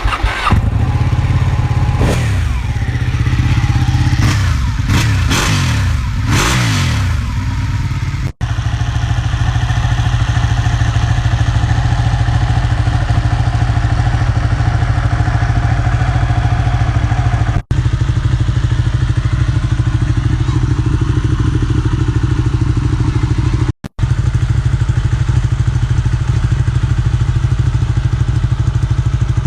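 2015 Ducati 899's L-twin engine revved in several throttle blips, rising and falling in pitch, over the first seven seconds or so, then running steadily at idle.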